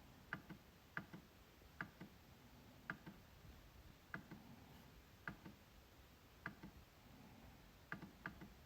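MacBook trackpad being clicked repeatedly: sharp clicks at an uneven pace of roughly one a second, many heard as a quick double of press and release.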